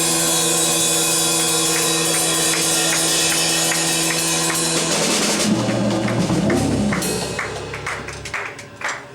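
Live jazz trio of tenor saxophone, Hammond-style organ and drums ending a tune: a held chord over cymbal wash and steady tapping about three times a second, then low organ notes that stop a little past eight seconds in as the music dies away.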